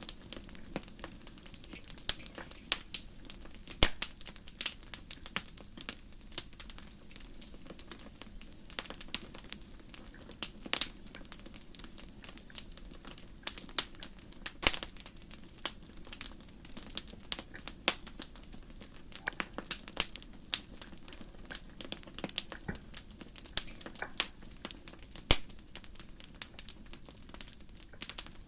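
Wood fire crackling: irregular sharp pops and snaps, several a second, over a low steady rush of flame.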